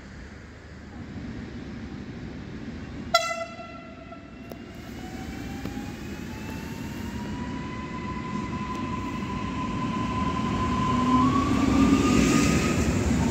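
Newag Impuls electric multiple unit pulling into a platform. About three seconds in it gives one short, sharp horn toot. An electric whine then rises in pitch and steadies over a rumble of wheels that grows louder until the carriages pass near the end.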